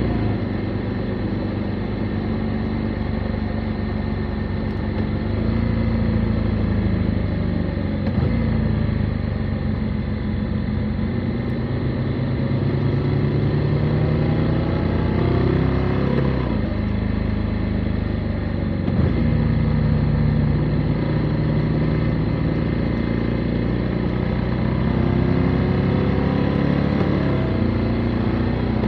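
Motorcycle engine running on the road, its note rising and falling with the throttle and a few sudden changes of pitch along the way.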